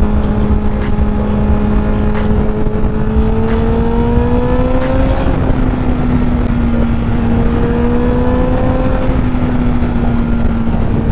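Honda CBR1000RR sport bike's inline-four engine running at steady cruising revs under heavy wind noise. The engine note creeps up in pitch a few seconds in, drops back a little, then holds steady.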